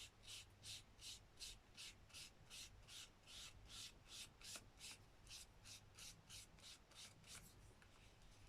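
Faint, rhythmic scrubbing of a dry paintbrush spreading gesso on a paper journal page, about three to four strokes a second, stopping shortly before the end.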